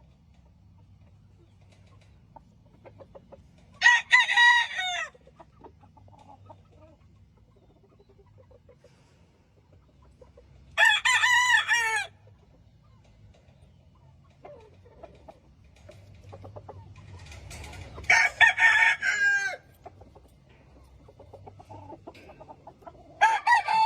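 Roosters crowing: four loud crows, each a second or so long, several seconds apart, over faint low background noise.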